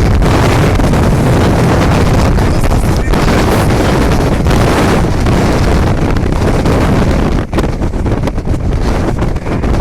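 Gale-force storm wind buffeting the microphone: a loud, continuous rumble. It eases briefly about seven and a half seconds in, then picks up again.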